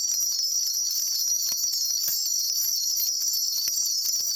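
Shaman's ritual bell cluster shaken rapidly and without pause, a dense, steady jingling of many small metal bells, as the shaman calls on the spirits for an answer.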